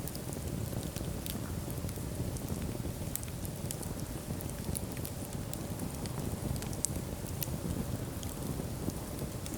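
Wood fire burning in a fireplace: a steady low rumble of the flames with frequent small sharp crackles and pops scattered throughout.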